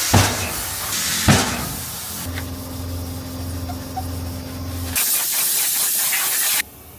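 A loud, steady pressurised spray hissing, with two sharp knocks near the start and a low motor hum joining in for a few seconds in the middle. The hiss cuts off a little before the end.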